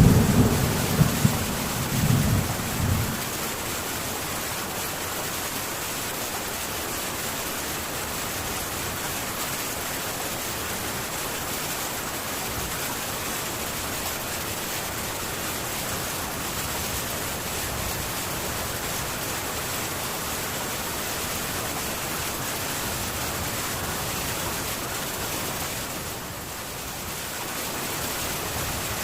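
Heavy rain falling on a metal tin roof as a steady, even hiss. A low thunder rumble dies away in the first few seconds. The rain eases a little for a moment near the end.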